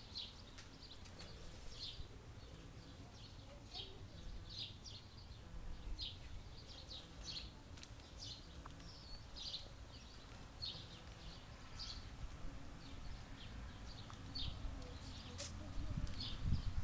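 Small birds chirping, many short separate calls about one or two a second, faint over a low steady background. A low rumble comes in near the end.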